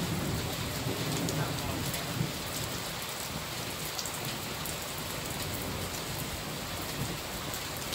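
Heavy rain falling steadily during a thunderstorm, pattering on surfaces, with the tail of a low thunder rumble dying away in the first second or two.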